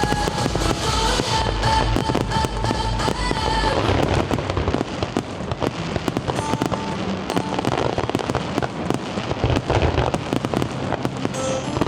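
Fireworks bursting and crackling in quick succession, with a musical soundtrack playing along, clearest in the first few seconds.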